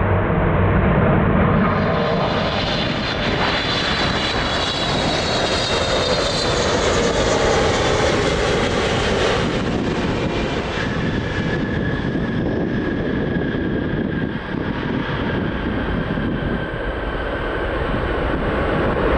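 Widebody jet airliner's engines passing close: a loud, steady rush with a high whine that falls in pitch over several seconds, giving way to a steadier whistle.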